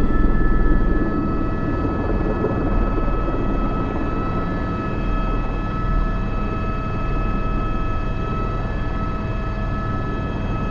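Airbus H125 (AS350 B3) helicopter heard from inside the cockpit, its turbine and rotor running steadily: a high turbine whine over a low rotor rumble, a little louder in the first second.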